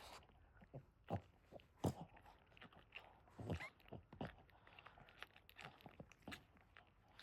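Faint, irregular wet smacking and crunching chewing sounds: the mother Boston Terrier licking and nibbling at her newborn puppies. A single small squeak comes about three and a half seconds in.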